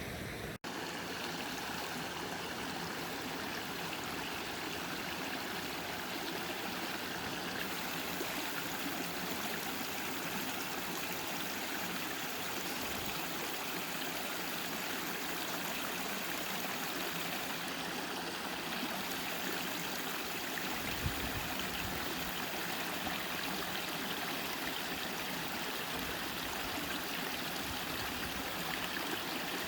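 River water flowing and rushing steadily, with a momentary break about half a second in.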